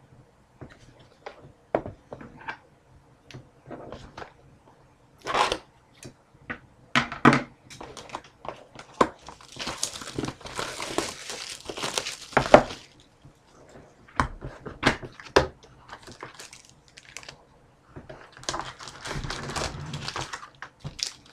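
Crinkling and tearing of plastic wrapping as a sealed trading card box is opened, with scattered clicks and taps from handling the box and packs. There are two longer spells of crinkling, one in the middle and one near the end.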